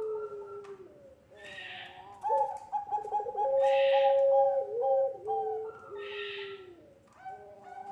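Puter pelung doves cooing in long, drawn-out notes that step down in pitch, several coos overlapping. A raspy, higher-pitched note recurs about every two seconds.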